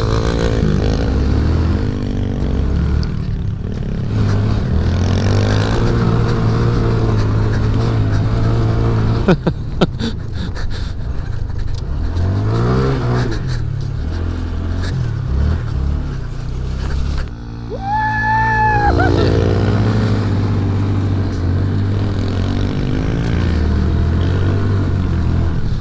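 Small single-cylinder mini bike engines running and revving as the bikes are ridden, with the pitch climbing and dropping through the gears. A few sharp clicks come about ten seconds in, and a brief high-pitched tone comes about two-thirds of the way through.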